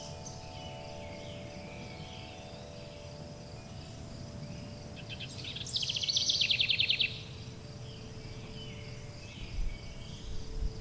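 Forest birdsong over a bed of long, sustained ringing chime tones and a low steady rumble. About five and a half seconds in a bird sings a fast trill of rapidly repeated notes, the loudest sound; softer chirps come before and after it, with a faint high insect-like pulsing underneath.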